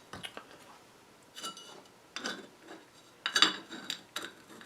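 Small metal parts being handled and set down on a hard surface: a handful of light clinks and knocks spread over a few seconds, one with a brief high ring.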